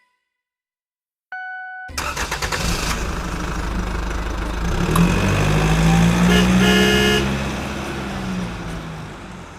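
A short horn beep, then a heavy vehicle engine starting up and running, growing louder to a peak about six to seven seconds in and then dying away. A second short horn toot sounds near the loudest point.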